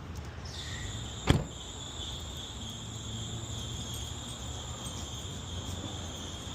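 A steady high-pitched whine in two tones over a low hum, with one sharp knock a little over a second in.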